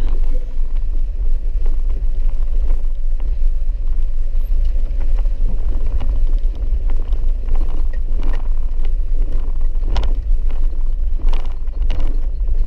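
Car interior noise while driving on a wet, rutted dirt road: a steady low rumble, with occasional short knocks and rattles, several near the end.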